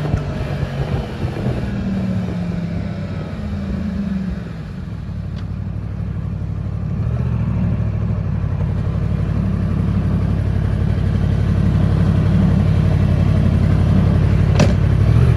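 Yamaha MT-10's crossplane inline-four engine sounding through its exhaust, revs falling back over the first few seconds and then idling steadily, slowly growing louder. A single sharp click near the end.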